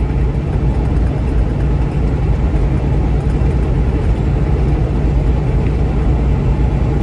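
Steady engine and road noise inside a moving vehicle's cabin, a low even rumble.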